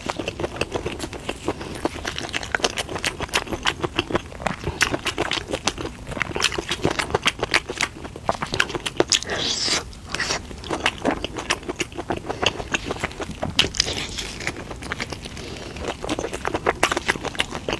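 Close-up eating sounds of a person chewing, with a steady run of irregular wet mouth clicks and smacks and a few short slurps.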